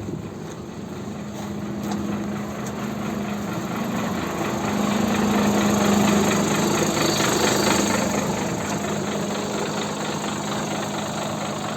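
Ashok Leyland 2214 cargo truck's diesel engine idling, growing louder for a few seconds in the middle before settling back.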